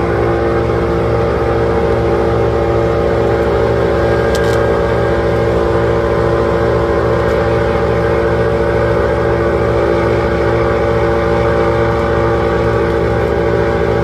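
A large engine running at a steady speed: a constant droning hum that never changes pitch or load.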